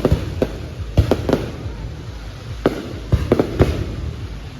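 Aerial fireworks bursting: a run of sharp bangs at irregular intervals, several in quick clusters, over a continuous low rumble of distant explosions.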